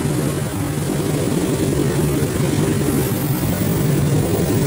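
Long freight train's wagons rolling past on the rails: a steady, loud low rumble of wheels on track.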